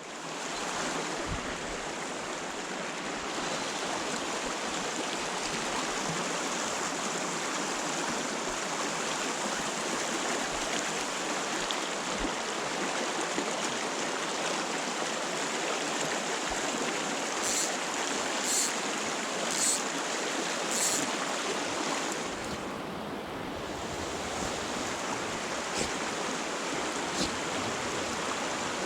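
Stream water rushing steadily over rocks. Four light, short ticks about a second apart come a little past the middle.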